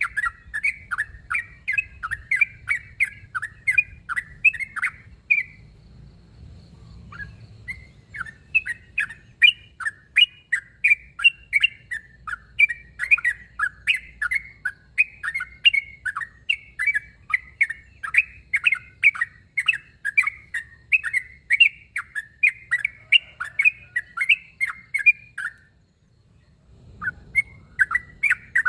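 Yellow-vented bulbul (trucuk) singing its aggressive 'narung' challenge song: a long run of short, bubbly chirps, about two a second. The song breaks off briefly about six seconds in and again near the end. It is a call meant to provoke rival bulbuls into answering.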